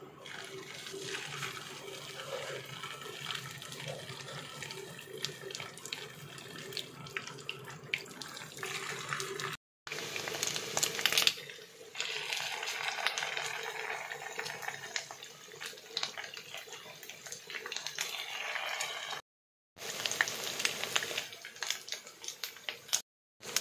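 Mutton-and-rice kababs shallow-frying in hot ghee in a nonstick pan: a steady sizzle with crackling pops. It drops out to silence briefly three times.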